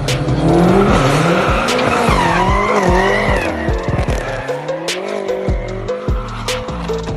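Car tires squealing, wavering up and down in pitch and loudest in the first three seconds or so, over music with a heavy bass beat.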